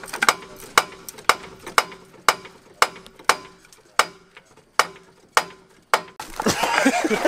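Hydraulic floor jack being pumped by its handle to raise a car, a sharp click about twice a second. About six seconds in, the clicking stops and a louder, rougher noise takes over.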